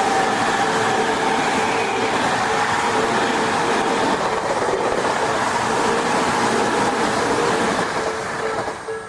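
Tobu Tojo Line electric commuter train passing loudly over a level crossing, its noise easing off near the end. Through it the crossing's warning bell keeps dinging in a steady repeating pattern.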